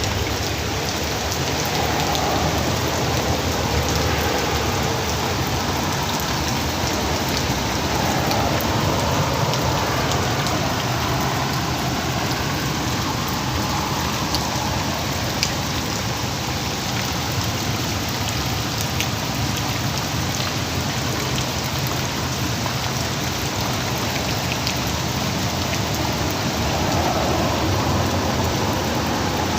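Heavy rain falling steadily, with scattered sharper drop ticks.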